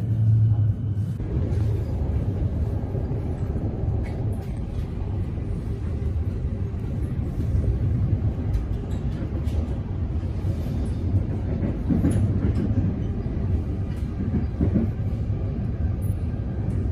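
Metro Trains Melbourne electric suburban train running, a steady low rumble with a few faint clicks.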